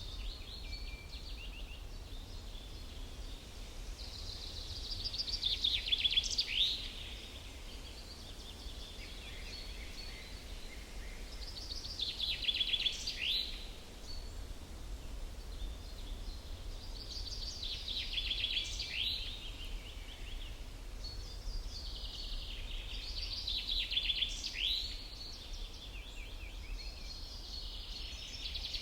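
A songbird singing short, quick trilled phrases with sweeping notes, one about every six seconds, over a faint steady low rumble of outdoor background noise.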